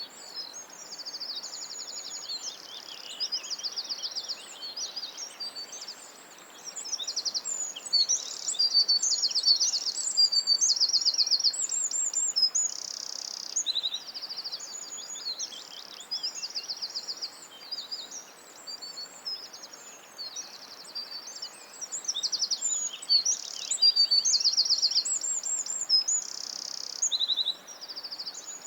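Songbirds singing, several high, rapid trills and chirped phrases overlapping almost without pause, over a faint steady background hiss.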